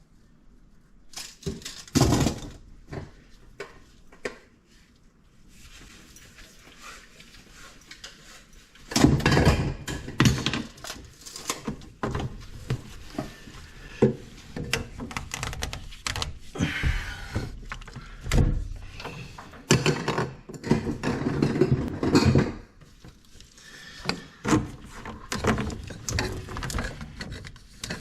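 Irregular knocks, thunks and rattling scrapes from hand work on a drain pipe and its fittings, busiest from about nine seconds in.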